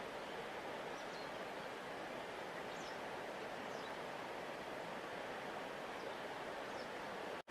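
Steady rushing flow of a large river, with a few faint high chirps over it. The sound drops out for an instant near the end.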